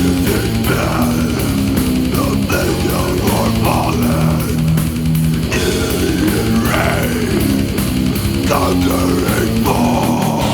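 Death metal from a cassette recording: heavily distorted electric guitar riffing over a steady drum beat. The riff changes near the end.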